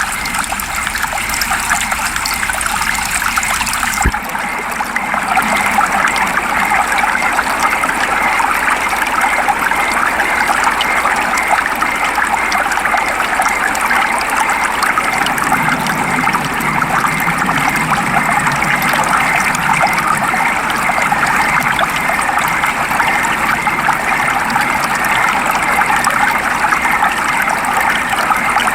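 Steady rain falling: an even, continuous hiss of rain. About four seconds in there is a small click and the tone shifts slightly, and a low rumble grows a little from about halfway through.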